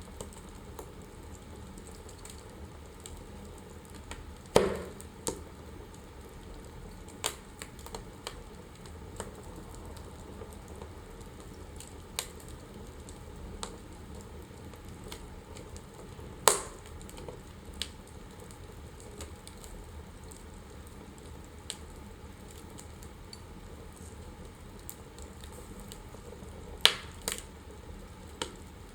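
Wood fire burning in a fireplace: a low steady hiss with sparse crackles and a few louder pops, about 4.5, 16.5 and 27 seconds in.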